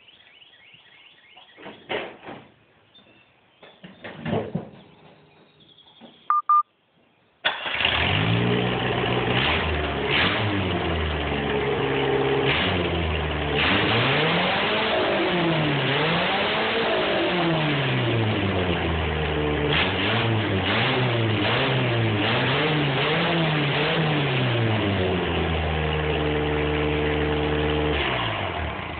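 A few knocks and thumps, then a 1984 Chevrolet Chevette's four-cylinder engine cranks briefly and catches about seven seconds in, running loud through an open through-hood exhaust stack made from a flipped exhaust manifold. It is revved up and down over and over, then settles to a steady idle and cuts off at the end.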